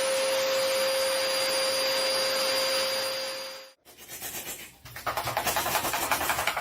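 A small electric motor runs steadily with a high, even whine and then cuts off suddenly about four seconds in. Near the end comes a fast, rhythmic rasping, many strokes a second.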